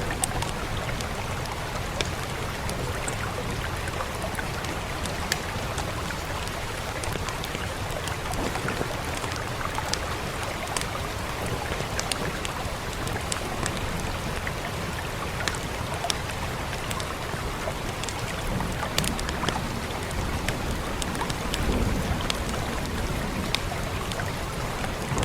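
Steady rain with a wood fire crackling, sharp pops scattered irregularly throughout. A low rumble swells briefly near the end.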